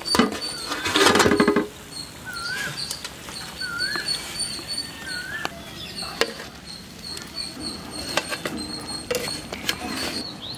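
A bird calling, the same short rising-then-falling chirp three times about a second and a half apart, over a steady high-pitched tone, with a few sharp clicks. A brief loud pitched cry comes about a second in.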